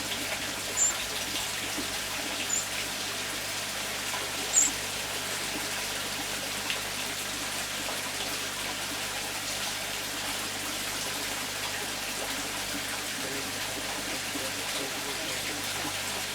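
Garden pond water trickling steadily, with three short high chirps from a small bird in the first five seconds, the last one loudest.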